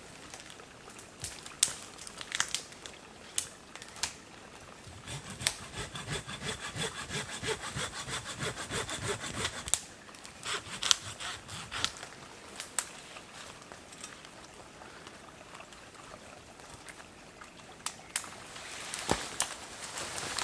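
Dry firewood being worked by hand: sharp snaps of sticks breaking, and a run of quick back-and-forth hand-saw strokes through wood from about a quarter to half-way through.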